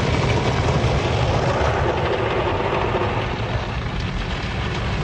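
Automated car wash spraying water and soap over the car, heard from inside the cabin as a loud, steady rushing on the body, easing slightly near the end.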